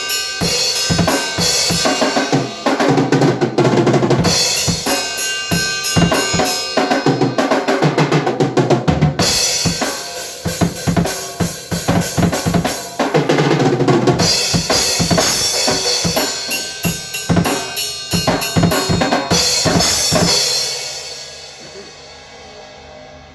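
Drum kit played in a busy, fast pattern of snare, bass drum and cymbal hits. About twenty seconds in the playing stops and the kit rings out, fading.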